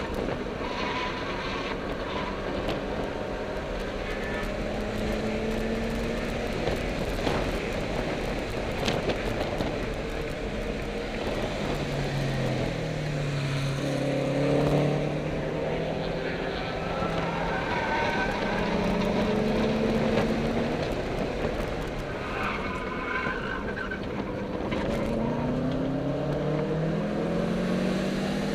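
Car engine heard from inside the cabin while lapping a race track, its revs climbing and dropping repeatedly as it accelerates, shifts and slows, over steady wind and road noise.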